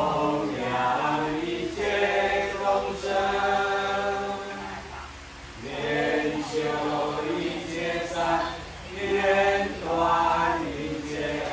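Choral singing with slow, held, chant-like vocal lines, easing off briefly about five seconds in before rising again.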